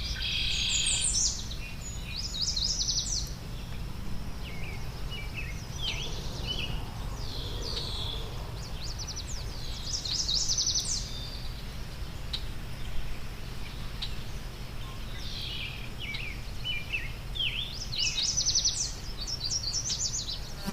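A songbird singing, several phrases of rapid trills and chirps a few seconds apart, over a steady low rumble of background noise.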